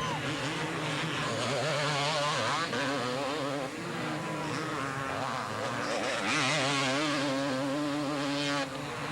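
Two-stroke motocross bike engines racing, their pitch rising and falling quickly as riders work the throttle. Louder from about six seconds in, dropping back just before the end.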